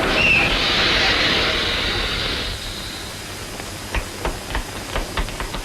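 Electric train running: a loud rushing hiss with a brief squeal near the start, fading after about two and a half seconds. A quick, regular clicking of about three clicks a second then sets in.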